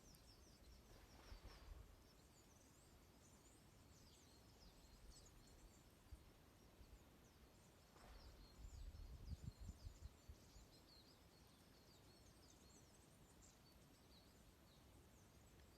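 A flock of small birds twittering faintly, with many short high chirps overlapping throughout. Two soft low rumbles come through, one near the start and a longer one past the middle.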